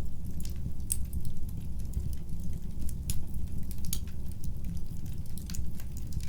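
Fireplace fire crackling: a steady low rumble of burning with irregular sharp pops and snaps, a few louder ones about a second, three and four seconds in.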